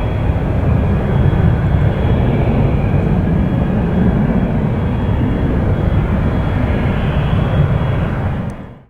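Airbus A320-200 airliner's jet engines: a steady loud rumble with a thin high whine over it, cutting off sharply near the end.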